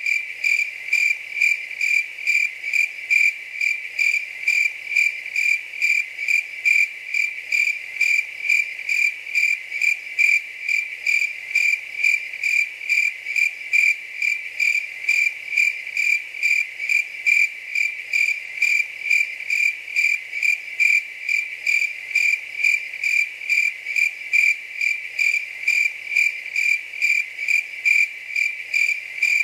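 A cricket chirping steadily, with high, evenly spaced chirps at about two a second and no let-up.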